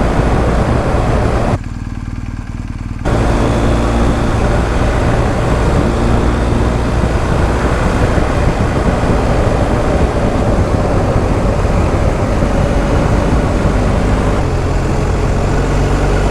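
BMW R1250 GS Adventure's boxer twin running under way over a steady rush of wind and road noise. The sound briefly drops and goes muffled about two seconds in, and near the end the engine note rises as the bike accelerates.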